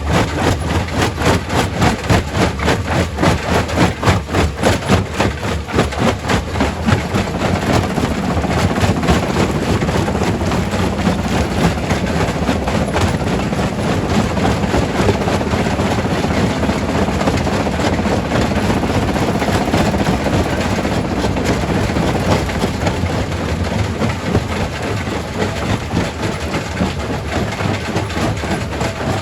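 Primary rock crusher running loudly at a quarry, crushing stone. It pulses evenly about twice a second for the first several seconds, then settles into a denser, steadier noise.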